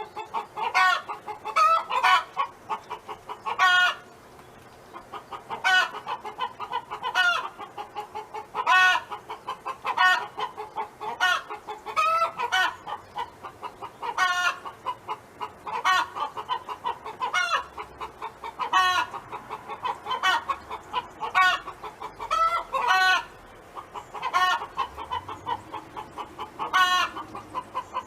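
Domestic hen clucking and calling repeatedly, with loud drawn-out calls about every second or so between runs of quick short clucks.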